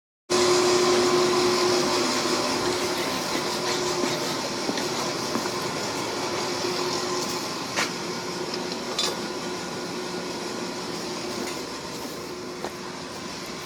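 Forge running with a steady roar and a faint hum that slowly gets quieter, with a few light metallic clicks.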